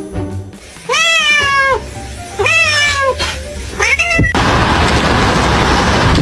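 A cat meowing: two long, drawn-out meows that rise and fall in pitch, then a short third. A loud, steady rushing noise follows for the last couple of seconds.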